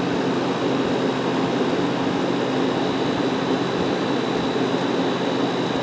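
Fedders 5800 BTU window air conditioner running on medium cool: a steady rush of air from its fan over a low, even hum from its rotary compressor.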